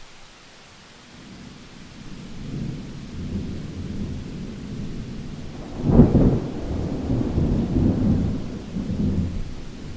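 Thunder rumbling over steady rain: a low roll builds from about a second in, cracks to its loudest about six seconds in, then rolls on and dies away near the end.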